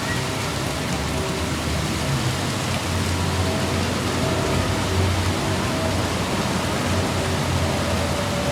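Steady drone of a moving car: road and engine noise with a low rumble and a faint, even hum underneath.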